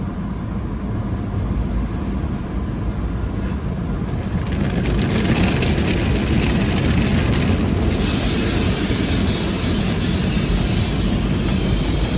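Automatic car wash heard from inside the car's cabin: a steady low rumble of the wash machinery, with a hiss of water spray and brushes against the car that swells about four seconds in and grows louder and brighter from about eight seconds.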